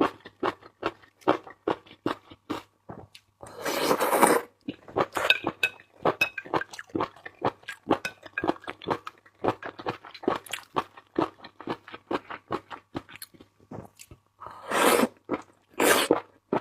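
Close-up eating sounds of seafood: a rapid run of crunching and chewing clicks, broken by a longer noisy sound about four seconds in and two more near the end.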